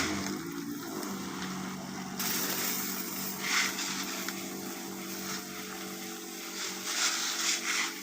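Small engine of a motorized crop sprayer running steadily at a constant speed while cacao plants are sprayed, with a couple of brief louder hissing surges.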